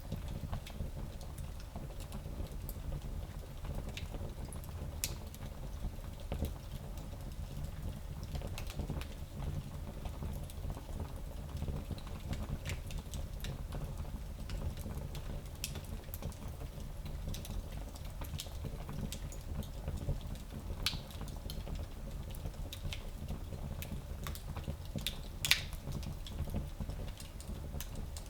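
Wood fire burning in a small fireplace: a steady low rumble of flames with scattered crackles and pops, one sharper pop near the end.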